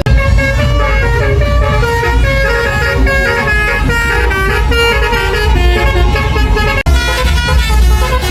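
Truck basuri horn, a multi-tone musical air horn, playing a quick melody of short stepping notes over a heavy low rumble. The sound breaks off for an instant about seven seconds in.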